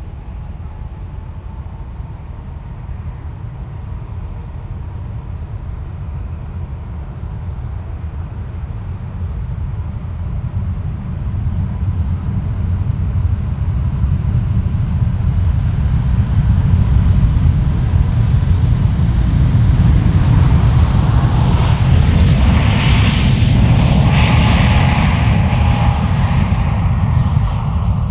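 Jet airliner's engines: a deep rumble that grows steadily louder as the aircraft comes close, loudest over the last ten seconds or so, with a faint whine above it.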